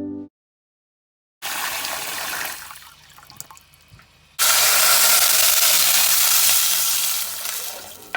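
Kitchen tap running water, first briefly, then after a pause with small knocks, a louder, steady stream from about four seconds in that tails off near the end. A short end of piano music comes right at the start.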